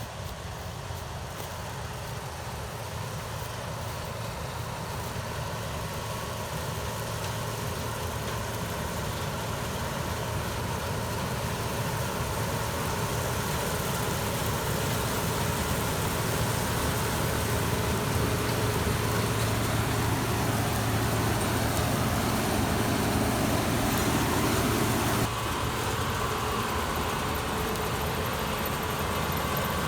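Combine harvester engine and machinery running steadily and growing gradually louder as it approaches, then dropping suddenly in level near the end.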